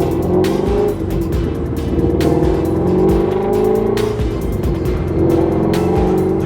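Ford Mustang Shelby GT350R's 5.2-litre flat-plane-crank V8 running under way as the car is driven, its pitch wavering with engine speed, with music playing over it.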